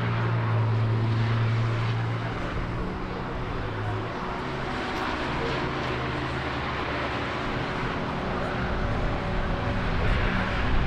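An engine running with a steady low drone, strongest in the first few seconds, over a background of outdoor noise.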